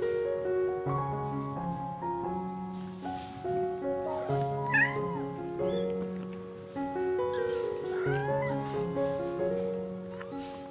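Kittens meowing in short, high, bending calls: a cluster about halfway through and another a few seconds later, over background piano music.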